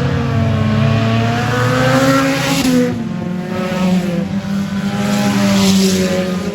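Stinger-class race car engines running at speed during a race, several engine notes rising and falling as the cars accelerate and lift off, with a brief dip about halfway through.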